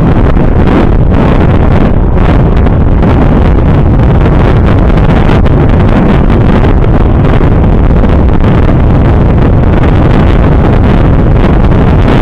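Heavy wind buffeting on the microphone of a moving motorcycle, a loud, steady rush that buries any engine sound.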